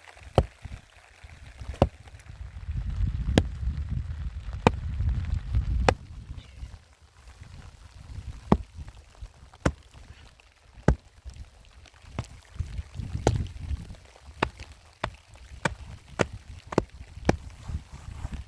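A series of sharp, irregular knocks, roughly one a second, with a low rumble from about two to six seconds in.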